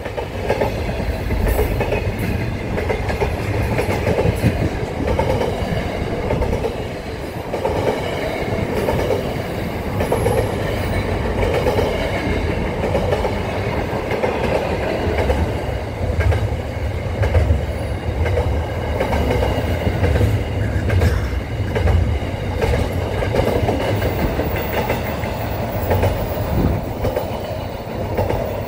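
Long freight train of container and flat wagons passing at speed: steady rumble and clatter of its wagon wheels rolling on the rails.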